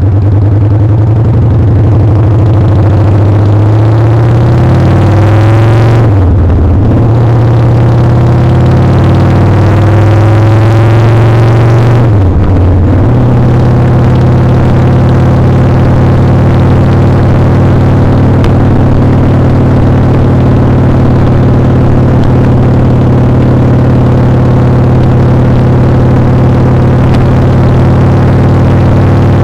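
Motorcycle engine accelerating through the gears, pitch climbing and dropping at two upshifts about six and twelve seconds in, then running at a steady cruise.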